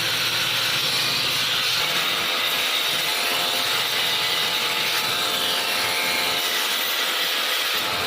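A power grinder running steadily against a knife blade during knife-making, giving an even, unbroken grinding noise with a faint shift in pitch about halfway through.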